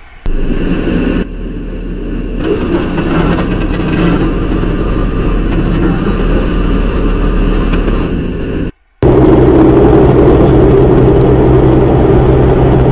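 Vehicle engine and road noise from the cab of a moving vehicle, steady and loud, broken by several abrupt cuts and a short silent gap about nine seconds in, after which a steadier, lower engine drone carries on.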